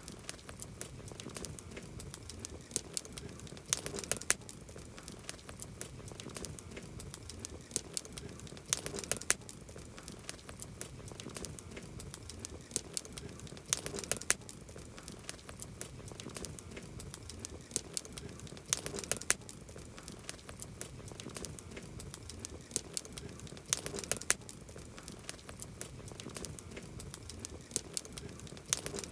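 Campfire crackling: wood burning with constant small pops and snaps over a soft hiss, with a louder cluster of pops about every five seconds.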